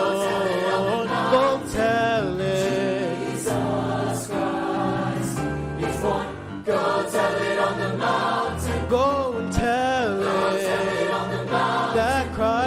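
A student choir singing with musical accompaniment, voices holding sustained notes with noticeable vibrato.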